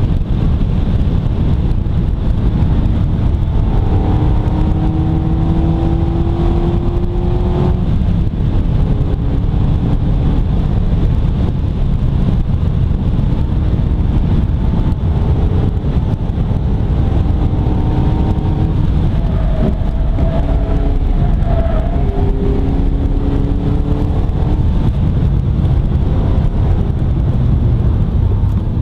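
Mazda MX-5 ND's 1.5-litre SkyActiv-G four-cylinder engine driving along under a heavy, constant low rumble, heard from the open cockpit with the roof down. Its note climbs steadily as it pulls through a gear several seconds in, and rises and falls a few more times later.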